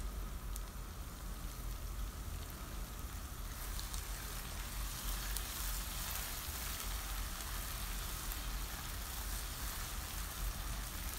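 Spinach and sliced almonds frying in oil on high flame in a nonstick pan, a steady sizzle. It grows brighter about three seconds in as the mix is stirred with a silicone spatula. The oil has risen to the surface, the final frying stage of the dish.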